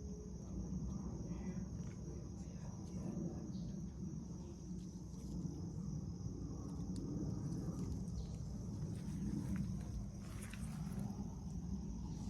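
Steady high-pitched insect chorus, crickets or similar, over a continuous low rumble, with a few faint clicks.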